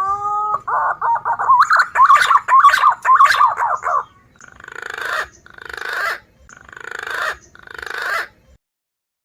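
Recorded call of wild green pigeons (punai) played as a bird lure: a rising whistle, then a run of wavering, warbling whistles, then four rough, raspy notes about a second apart.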